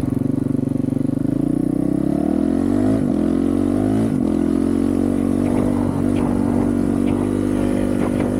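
Honda CRF450RL's 450 cc single-cylinder four-stroke engine, through a full titanium Yoshimura RS-4 exhaust, running under throttle while ridden. Its pitch rises about two seconds in, then it holds steady high revs.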